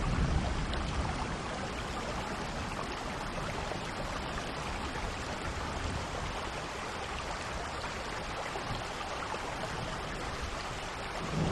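Steady rain falling. A low thunder rumble dies away over the first couple of seconds, and another rumble begins near the end.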